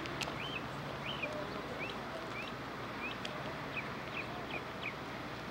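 A bird chirping over and over, about two short, rising chirps a second, over a steady hiss.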